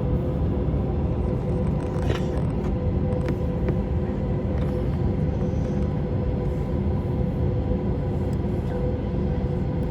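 Jet airliner cabin noise in flight: a steady low rumble with a constant engine hum of several steady tones, and a few faint clicks.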